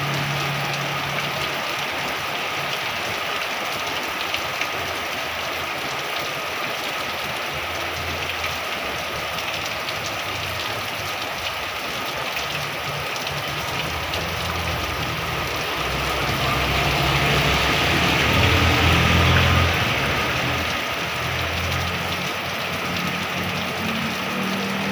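Heavy rain falling steadily, with a low engine rumble coming and going underneath, loudest about two-thirds of the way through.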